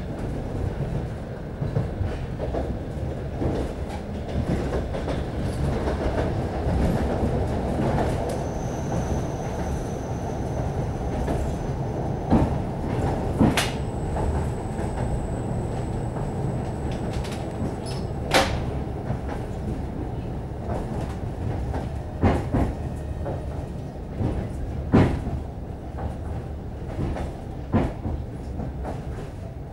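A suburban passenger train running, heard from inside the carriage: a steady low rumble, broken by irregular sharp knocks of the wheels over rail joints and switches. A faint high whine sounds for a few seconds in the middle.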